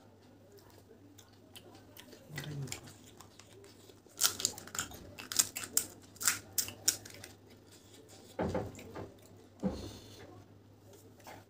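Crisp pani puri shells being crunched and chewed in the mouth, with a run of sharp crackly crunches from about four seconds in, then two duller thuds near the end.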